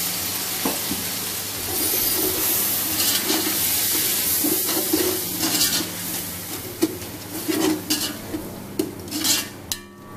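Onion, tomato and spice masala sizzling in hot oil in a large metal pot after a splash of water, while it is stirred and fried. A metal slotted spoon scrapes through it, and in the second half it knocks sharply against the pot several times as the sizzle dies down.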